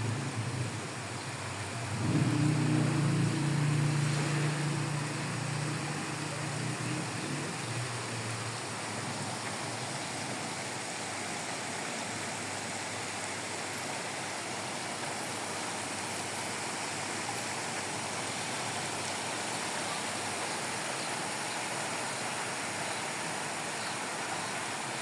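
Steady rain falling, an even hiss. From about two seconds in, a louder low steady hum joins it, loudest at first, then fading out after about six seconds.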